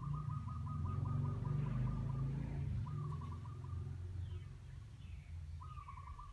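A bird singing a fast trill of short repeated notes in three bouts, with fainter high descending chirps in the second half. Under it runs a low rumble that swells about a second in and then slowly fades.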